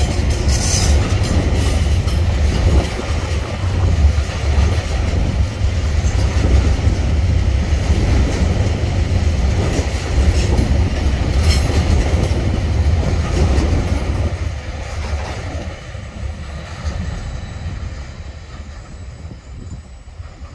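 Container wagons of a freight train rolling past on steel wheels and rails, a steady low noise that fades from about fourteen seconds in as the end of the train passes and draws away.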